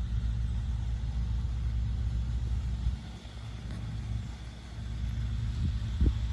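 A heavy engine running steadily with a low rumble; it drops in level for about two seconds near the middle, then comes back, with a short thump just before the end.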